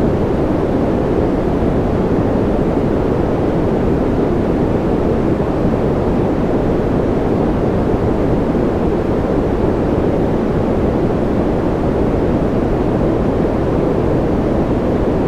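Steady white-noise-style sleep noise: an even, unbroken rush weighted toward the low end, with no drops, ticks or changes.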